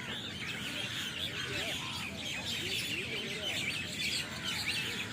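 Dense din of a large flock of birds settling into a communal roost in a big tree, many short chirps and chatter calls overlapping continuously.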